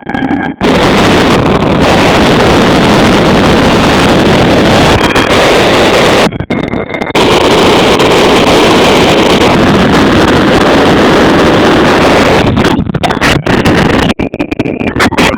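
Motorcycle ride at speed, its engine running under heavy wind buffeting on the microphone. The wind noise drops out briefly about six seconds in and again near the end.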